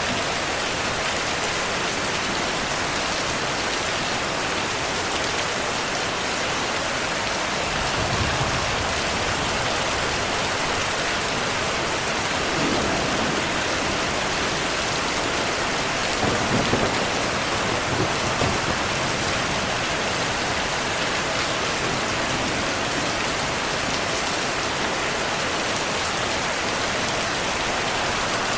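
Steady rainfall, an even hiss, with low rolls of thunder rumbling up about eight seconds in and again around the middle.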